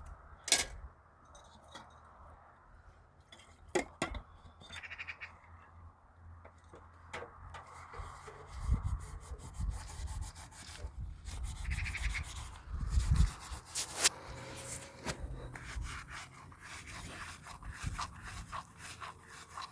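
Cloth rubbing and scrubbing against a surface in irregular strokes, with scattered sharp clicks and a few dull knocks.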